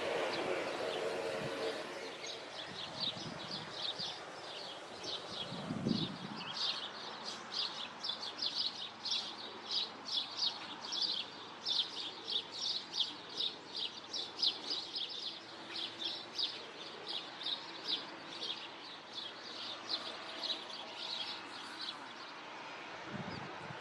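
A small songbird chirping rapidly and on and on, short high chirps several times a second. There is one low thump about six seconds in.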